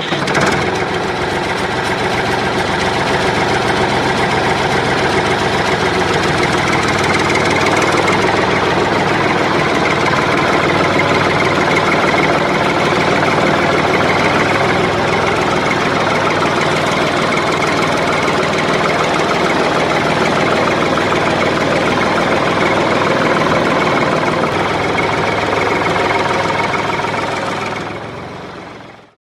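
Small electric motor of a homemade toy tractor running steadily under load, fading out near the end.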